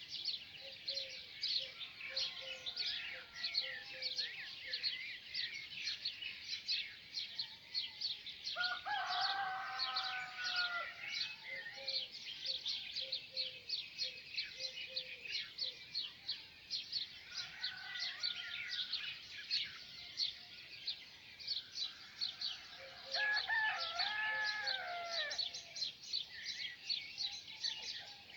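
Many small birds chirping rapidly and constantly, a dawn chorus, with a rooster crowing twice: once about nine seconds in and again near the end of the second third.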